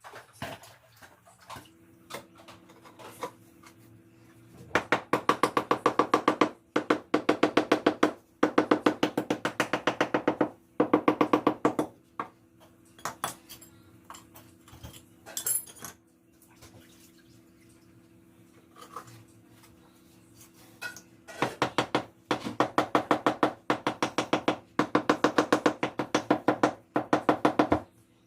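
Rapid, even tapping on refractory firebricks being bedded into mortar, about five knocks a second in runs of several seconds, each knock with a short ringing tone. A faint steady low hum sits underneath.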